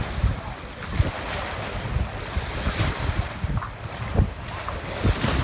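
Wind buffeting the microphone in uneven gusts over the steady wash of sea waves on a beach.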